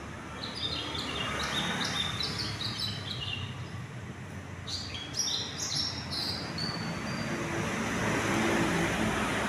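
Small birds chirping in two bouts of quick, short, high notes, over a steady low rumble that grows louder near the end.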